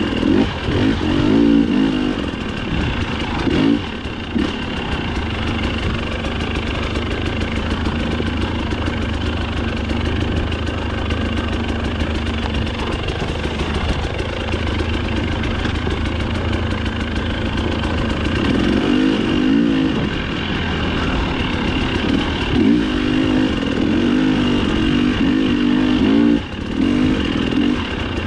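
Dirt bike engine running under the rider, revving up and down with the throttle. It holds a steadier, lower pitch through the middle, then climbs in repeated quick revs in the last ten seconds.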